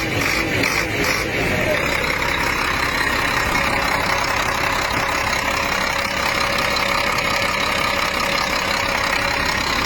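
Wheel loader's diesel engine running, its pitch falling over the first couple of seconds and then holding steady at idle.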